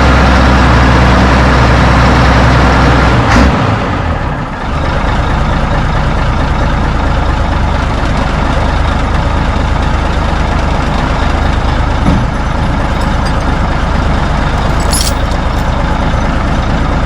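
Large diesel truck engine running with a steady low drone. About three and a half seconds in its note breaks off with a knock, and a lower, rougher steady rumble carries on.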